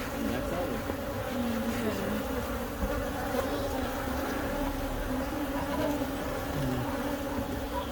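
Honeybees buzzing in large numbers around their opened hive: a steady, dense hum, with the drone of single bees gliding up and down in pitch now and then as they fly past.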